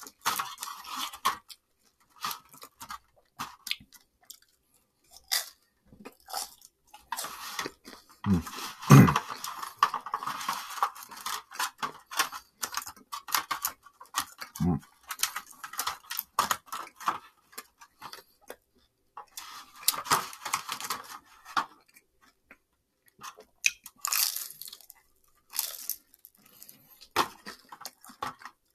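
Close-miked eating sounds: chewing and mouth noises from takeout food eaten with chopsticks, in irregular clicks and wet smacks. A few low thumps stand out, the loudest about nine seconds in.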